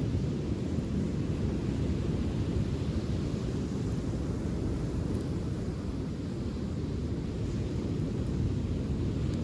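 Steady low rumble of wind and surf on the beach, with a few faint crackles from the bonfire.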